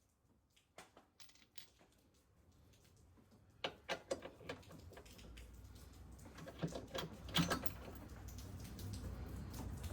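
Scattered clicks and knocks of hand tools and metal hardware being handled while jacking rails are bolted under a car, with clusters about four and seven seconds in. A low rumble grows steadily louder beneath them from about halfway through.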